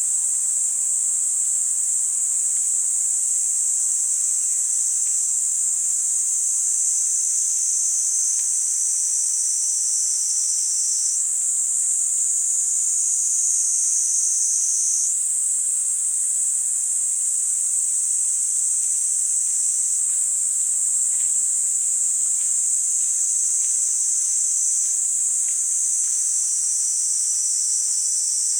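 Niiniizemi cicadas (Platypleura kaempferi) buzzing in a steady, high-pitched chorus. Now and then one voice in the chorus starts or stops, shifting the tone slightly, a few times along the way.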